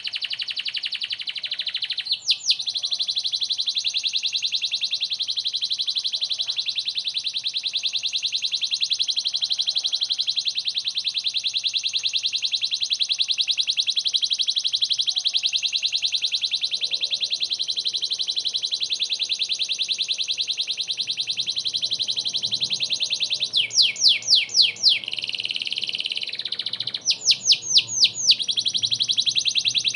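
Domestic canary singing: one fast, even trill held for about twenty seconds, then several short runs of quick sweeping notes near the end.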